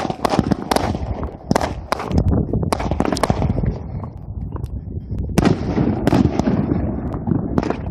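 Consumer fireworks going off: a quick run of sharp bangs and crackles in the first few seconds, then a few more spaced bangs over a rumbling echo.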